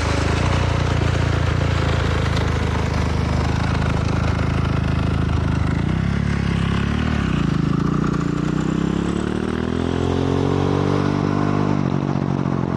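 Honda CRF450R dirt bike's single-cylinder four-stroke engine running steadily, then dropping in pitch about six seconds in and rising as it accelerates, easing off near the end. A steady rushing hiss runs underneath.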